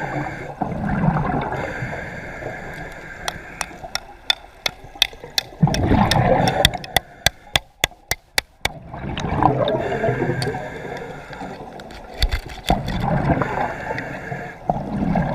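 Water gurgling and sloshing in surges every few seconds. In the middle comes a run of sharp clicks, quickening into a regular series for a couple of seconds.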